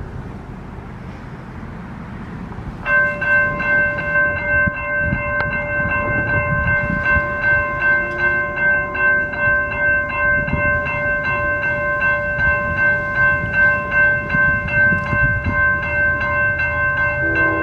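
Railroad grade-crossing bell starts ringing about three seconds in, struck about twice a second with a steady clang, over a low rumble. A locomotive horn sounds right at the end.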